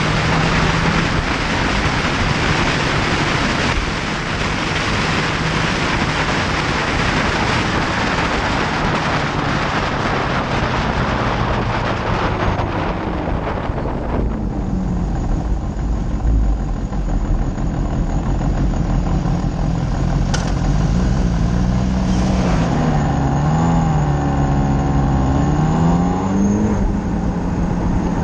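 Motorcycle engine and heavy wind rush from a camera on a moving bike. About halfway through the rush fades, leaving the engine, whose pitch rises and falls several times with the throttle near the end.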